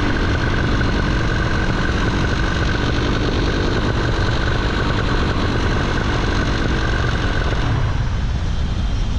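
Small aircraft engine and propeller running steadily, with wind rumbling on the microphone. About eight seconds in, the steady whine drops away and wind noise is left.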